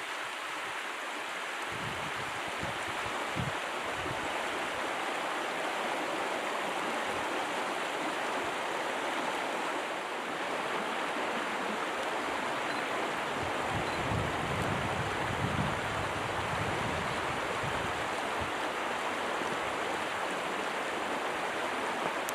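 Small stream running steadily, a constant rush of water.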